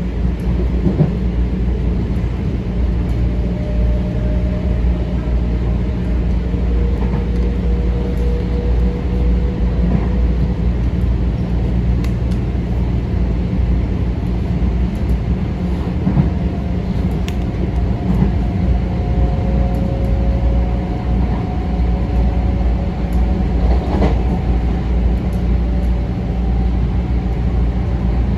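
Metro-North M7 electric multiple-unit train running at speed, heard from inside the car: a steady low rumble of wheels on rail, with a faint whine that slowly rises in pitch and a few scattered clicks from the track.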